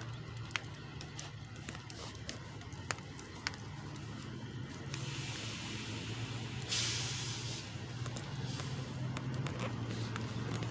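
Heavy truck engine running at a steady idle, with a few sharp clicks early on and a burst of hissing from about five seconds in that grows louder near seven seconds and stops about a second later.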